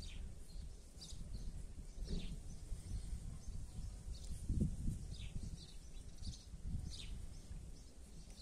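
Small birds chirping now and then, short calls that fall in pitch, over an uneven low rumble with a few dull thumps.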